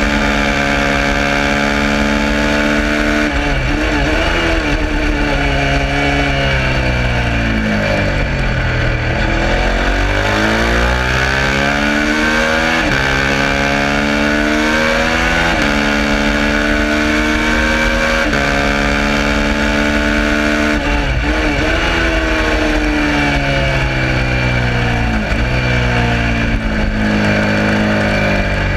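Suzuki SV650's V-twin engine at full racing effort. The note climbs with the revs and falls back many times, with sharp dips every few seconds.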